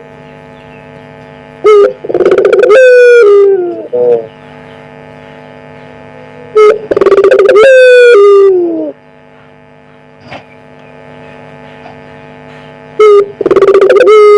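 Puter pelung (domestic Barbary dove) cooing loudly: three coos about five seconds apart, each a short note followed by a long, drawn-out note that falls in pitch at the end. A steady electrical hum runs underneath between the coos.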